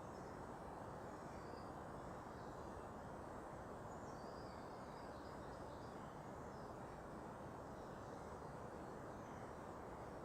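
Steady low background hum, like distant city traffic, with faint high chirps of small birds scattered through it, most of them around the middle.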